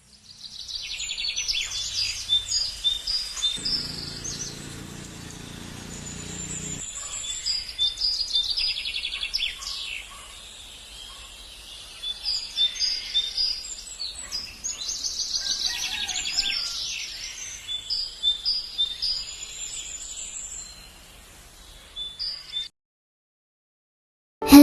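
Songbirds chirping and trilling, with many quick repeated high notes from more than one bird. A faint low hum joins about four seconds in for roughly three seconds, and the birdsong cuts off suddenly near the end.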